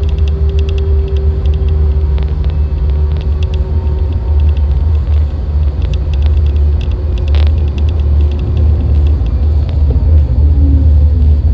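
Electric tram running, a steady heavy low rumble with a faint motor whine that falls in pitch near the end as it slows. Light clicking and rattling runs over it.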